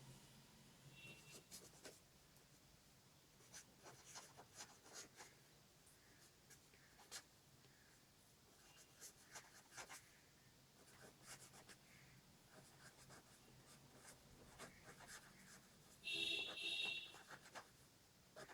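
Faint pen scratching in short strokes as someone writes out a maths solution, with a brief higher-pitched squeak near the end.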